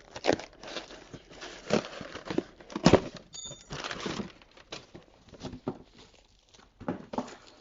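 Packages being opened and unpacked by hand: scattered knocks and thuds with crinkling and tearing of packaging, and a brief high squeak about three and a half seconds in.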